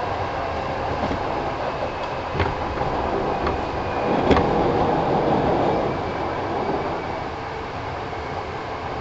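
Kintetsu 1000 series electric train running, heard from on board: a steady rumble of wheels on rail with a couple of sharp clicks at rail joints. It swells a little in the middle and then eases slightly quieter.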